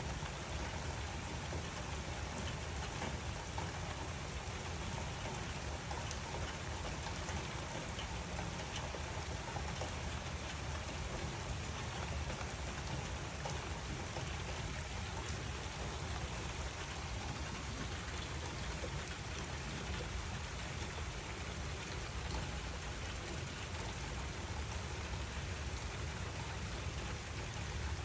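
Steady rain falling, with scattered individual drops ticking against a surface.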